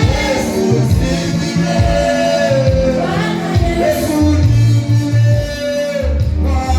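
Live worship music: a band with bass and drums accompanying sung vocals.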